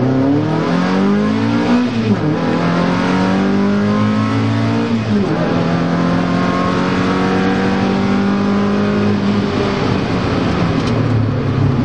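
Mazda Miata rally car's four-cylinder engine heard from inside the cabin, accelerating hard with rising pitch and shifting up twice, the pitch dropping about two seconds in and again about five seconds in, then holding a steady speed. Road noise from the rough gravel surface runs underneath.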